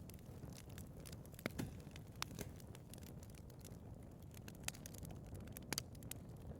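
Wood fire burning in a fireplace: irregular sharp crackles and pops over a low, steady rumble of flame, with a couple of louder pops about a second and a half in and near the end.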